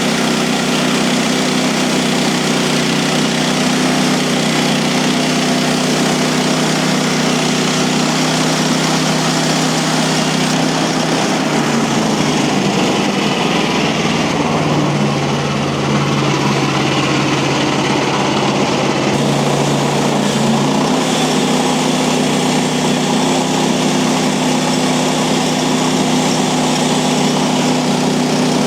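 Gasoline engine of a Mechmaxx bandsaw mill running steadily, its pitch shifting for several seconds in the middle before settling back.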